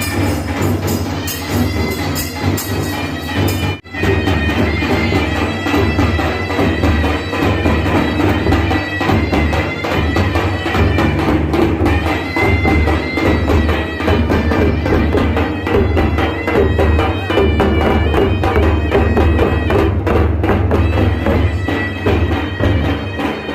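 Traditional folk music: a loud reedy wind instrument played over fast, steady drumming, with a brief break about four seconds in.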